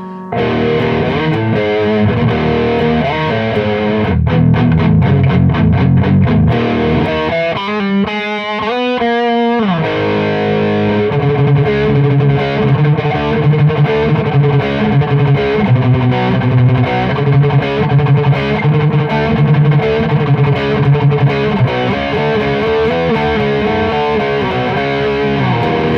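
Electric guitar played through an Audiostorm Quad Screamer overdrive pedal in its MOSFET clipping mode, gain maxed and tone turned right down: a heavily distorted, scooped-mid metal sound. Riffing with a falling slide about eight to ten seconds in, then a steady low riff.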